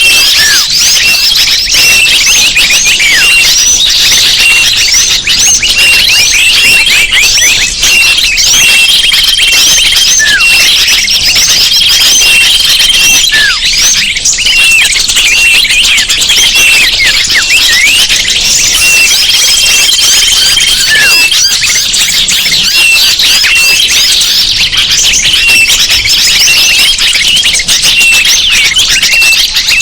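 Bird-lure recording: a dense, loud chorus of many small birds chirping and twittering, with quick high calls overlapping. Long, steady high whistle notes are held every few seconds.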